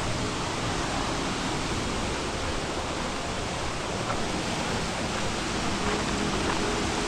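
Steady rush of a waterfall and fast-flowing river, an even hiss of water.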